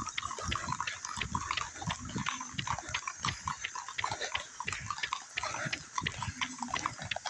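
Horse-drawn wagons going by: many horses' hooves clip-clopping in an uneven patter of sharp knocks, several a second.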